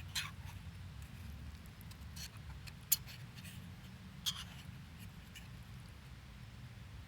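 Scattered light clicks and taps, the sharpest about three seconds in and just past four seconds, over a steady low hum.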